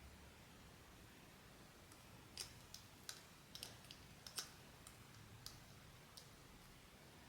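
About ten light, irregular clicks and taps from handling a small plastic toy figure and its packaging. They start about two seconds in and end about a second before the close, the loudest near the middle.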